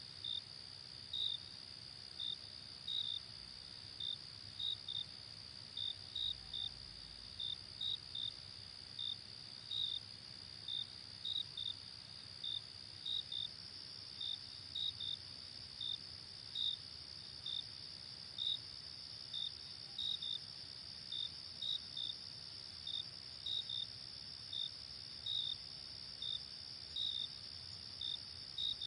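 Crickets chirping: short, clear chirps about one or two a second over a steady, high, continuous insect trill.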